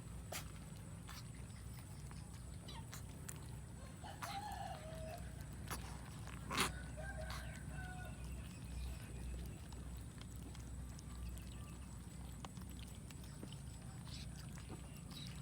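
Cats eating rice: scattered small clicks of chewing and picking at food, with a sharper click about six and a half seconds in. Two short animal calls come about four and seven seconds in, over a steady low hum.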